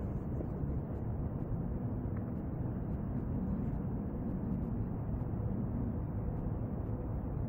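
Steady low rumbling background noise, even and unbroken, picked up outdoors by a compact camera's built-in microphone.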